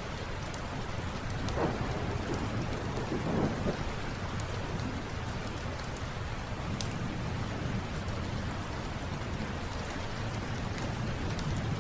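Steady rain with a low rumble of thunder that swells a couple of times in the first few seconds, and scattered sharp pops from a crackling wood fire.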